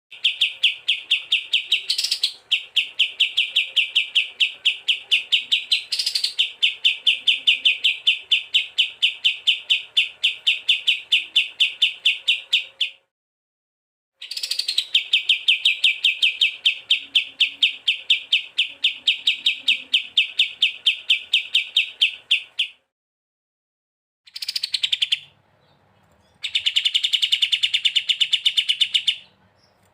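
A small songbird giving a fast, very even run of sharp chirps, several a second, in long bursts of several seconds with short breaks, and a few brief upward squeals among them.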